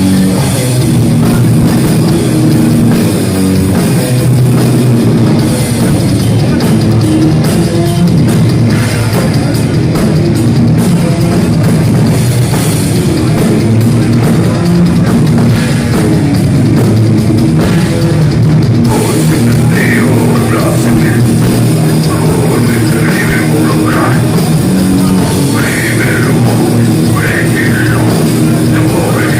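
Heavy metal band playing loud, live, with drum kit and guitars.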